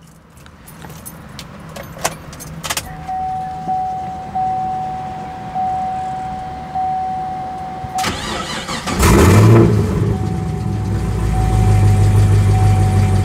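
Keys clicking at the ignition of a 2010 Chevrolet Camaro SS, then a steady electronic chime for several seconds. About eight seconds in, the starter cranks and the 6.2-litre V8 fires with a brief rev flare, then settles into a deep steady idle while the chime keeps sounding.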